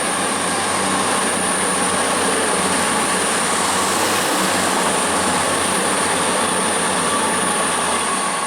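A train passing at speed: a steady rush and rumble of wheels on rail with a thin, high-pitched whine held over it.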